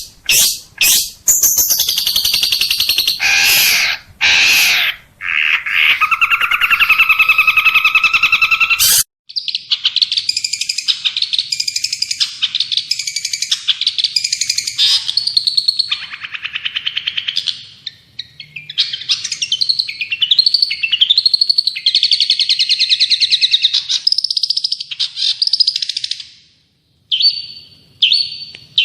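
Recorded songbird song played as tutoring material for a shrike. Loud, harsh calls and drawn-out notes give way abruptly, about nine seconds in, to a different bird's long, fast, high-pitched trilling song with rolling, gliding phrases. Short chips follow after a pause near the end.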